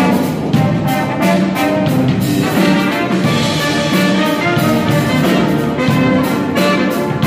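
Brass band playing a tune with trumpets and other brass over a steady beat.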